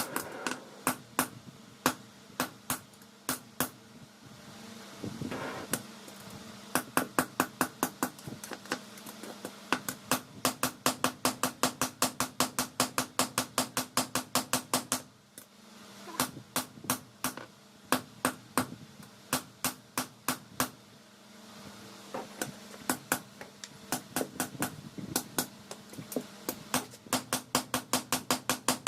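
Hammer forging the steel of a car leaf spring on an anvil: runs of rapid ringing blows, several a second, broken by short pauses, over a steady hum.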